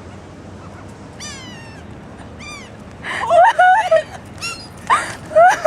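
Birds calling: a couple of short down-slurred cries, then from about three seconds in a run of loud, wavering cries.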